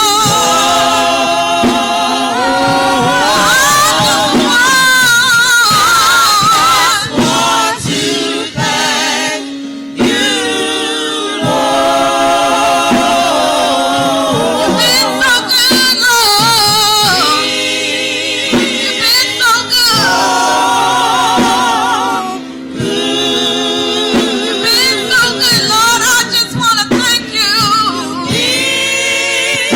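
Gospel singing, with voices holding long notes with vibrato and phrases breaking off every few seconds.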